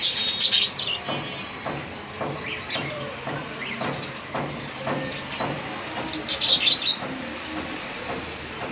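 Budgerigars chattering and warbling, a busy run of short chirps and squeaks, with a loud shrill burst of calls right at the start and another about six and a half seconds in.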